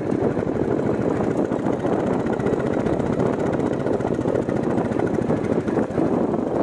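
Royal Enfield Bullet 350's single-cylinder engine running steadily while the bike is ridden.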